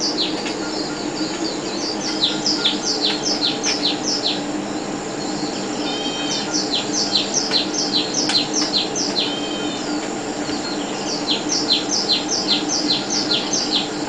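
Birdsong from a television's nature soundtrack: runs of quick, falling chirps, several a second, coming in bursts, with a low steady hum underneath.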